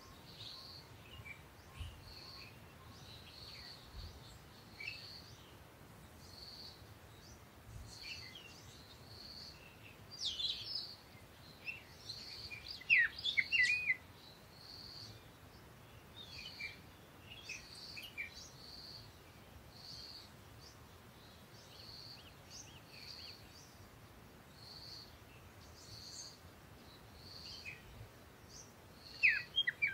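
Birds chirping in the background: one short high call repeated about once a second, with louder bursts of varied chirps about ten to fourteen seconds in and again near the end.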